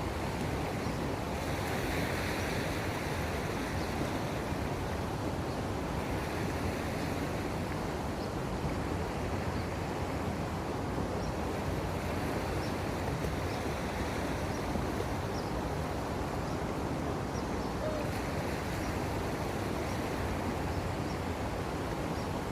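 Steady wash of sea waves at the harbour's edge, with wind on the microphone.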